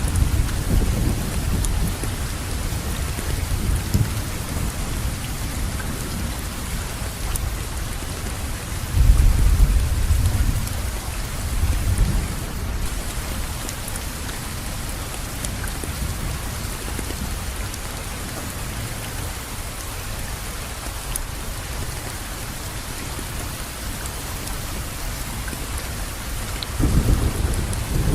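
Steady rain falling, with low rumbles of thunder: a strong roll about nine seconds in, a shorter one soon after, and another building near the end.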